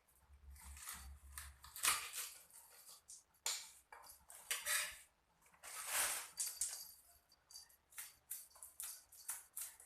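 Irregular scraping and clattering of kitchen utensils against a dish, in uneven strokes with a few sharp clicks.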